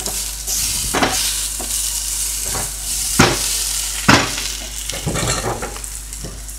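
Onions sizzling as they fry in steak juices on a griddle pan, with a steady hiss broken by the clatter of a utensil knocking against the pan as they are stirred; the sharpest knocks come about three and four seconds in.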